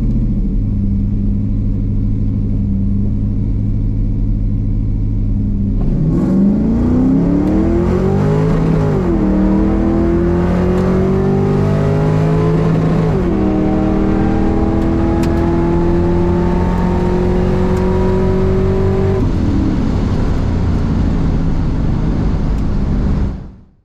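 LS-swapped V8 (5.3 L) of a 1989 Camaro IROC with a 4L60E automatic making a quarter-mile drag pass. It holds a steady note on the line, then launches about six seconds in and revs climb, with the pitch dropping twice at the upshifts. It pulls hard for about thirteen seconds, and the revs fall as it lifts off near the end before the sound cuts out.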